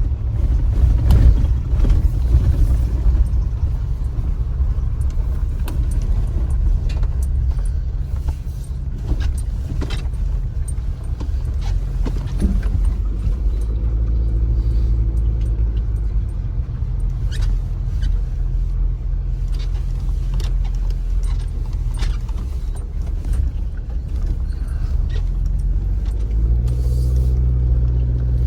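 Inside the cab of a Chevy Colorado ZR2 pickup driving on a rough mountain road: a steady low rumble of engine and tyres, with many short clicks and rattles from loose gear, which the driver puts down to the fridge he moved behind the seat. The engine note grows louder about halfway through and again near the end.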